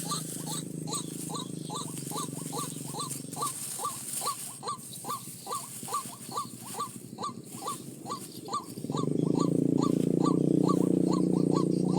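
White-breasted waterhen (ruak-ruak) calling: a long, even series of short rising notes, about two and a half a second. Under it runs a steady low drone that grows louder about nine seconds in.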